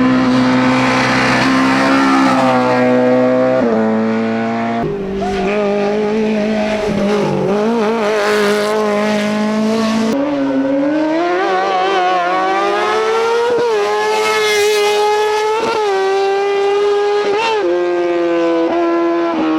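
Hillclimb race car engines under hard acceleration, the pitch climbing and dropping with each gear change, with sudden cuts from one car to another a few times.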